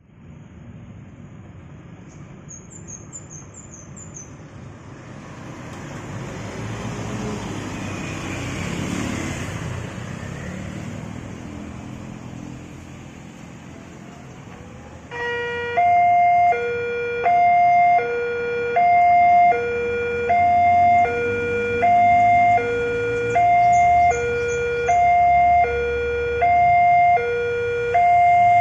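Road traffic passing, then about halfway through a railway level crossing's electronic warning alarm starts. It alternates steadily between a lower and a higher tone, each held for about three quarters of a second. The alarm signals an approaching train and the closing of the crossing gates.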